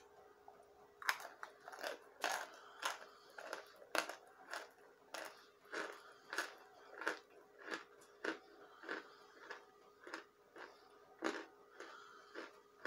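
A person chewing a chunk of corn starch: a regular series of crisp crunches, about one and a half a second, starting about a second in.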